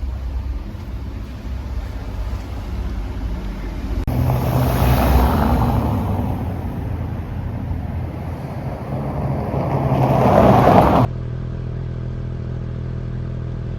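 Motorcycle engine running on the road, with a steady hum under rushing road and wind noise. A louder stretch starts suddenly, swells, then cuts off abruptly to a steadier engine hum.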